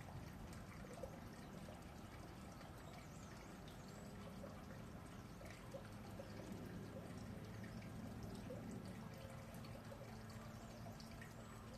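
Red panda chewing bamboo: faint, scattered crunching and crackling of stalks and leaves, over a steady watery trickle.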